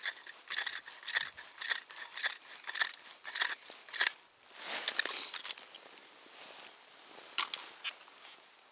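Footsteps crunching in snow, about two steps a second, stopping about four seconds in; then a short rustle and a few sharp clicks.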